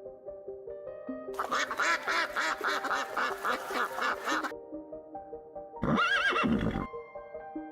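Soft background music with animal calls over it: a rapid run of quacking from about a second and a half in until about four and a half seconds, then a single loud horse whinny near the end.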